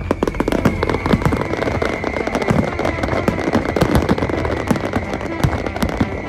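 Fireworks display: a dense, rapid crackle of many small bursts mixed with deeper booms, and a high steady tone held over it that dips slightly in pitch at the start.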